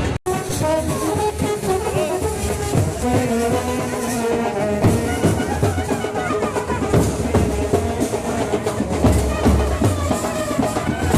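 Procession brass band playing a melody over beating drums.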